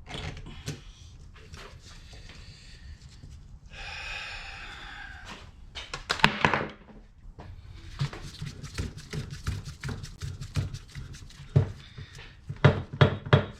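Hand tools and metal parts being handled on a car's steering assembly: irregular clicks and knocks, thicker in the second half, with a brief hiss about four seconds in and a short rasping stretch about six seconds in.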